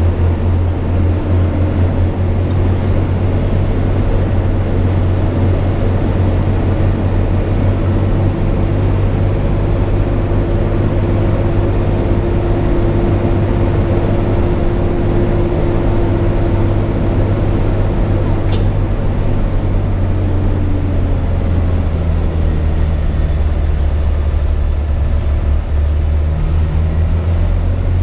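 Hino 500 FM 260 JD truck's six-cylinder diesel engine running steadily under way, heard from inside the cab as a deep drone. A faint whine swells and fades in the middle, and there is one short click about two-thirds of the way through.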